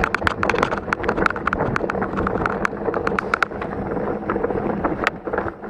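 Mountain bike rolling over a rocky, loose trail: a dense run of irregular clicks and rattles from tyres and frame on stones, over wind noise on the microphone.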